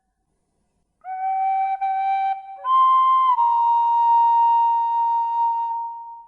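Slow, calm melody on a flute-like wind instrument: after a second of silence, two short notes at the same pitch, then a higher note held for about three seconds that fades out at the end.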